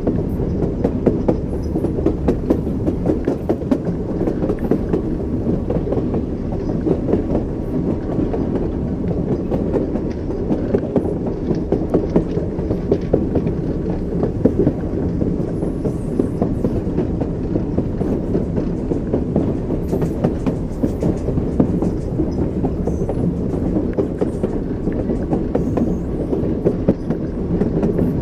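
Train wheels clacking over rail joints on a moving train, with a continuous low rumble and a run of irregular knocks throughout.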